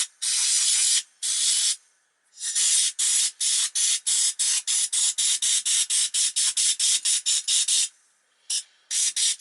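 Compressed-air blow gun blasting dust out of a vacuum cleaner motor's windings: two hissing blasts of just under a second each, then a rapid run of short bursts, about three to four a second.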